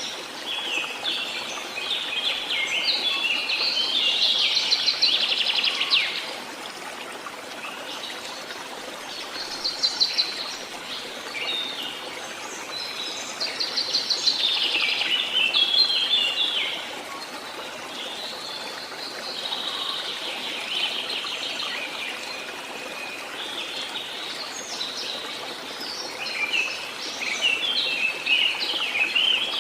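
Songbirds singing: bouts of rapid, quickly changing high notes a few seconds long, repeated with short pauses between, over a faint steady hiss of outdoor background noise.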